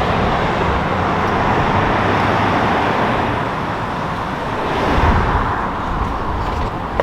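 Steady road and tyre noise with a low engine hum from a moving car, swelling briefly about five seconds in.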